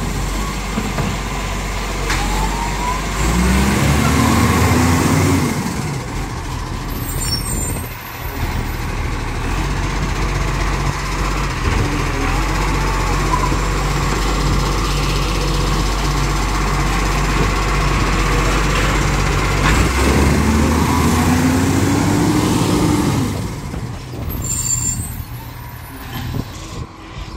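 Garbage truck's diesel engine running, revving up twice with a rising pitch, each time followed by a short hiss of air.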